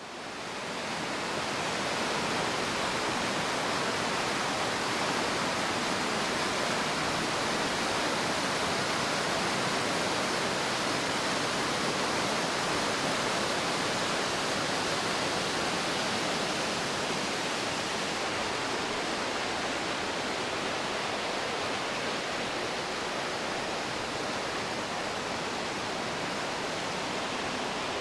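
Steady rush of running water, fading in right at the start.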